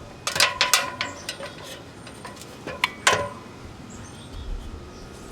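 Metal ladder clanking as it is handled: a quick cluster of ringing knocks about half a second in, then one louder clank about three seconds in.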